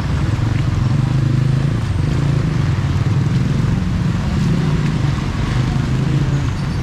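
Motor vehicle engine running steadily nearby, a low drone with a fast, even pulse.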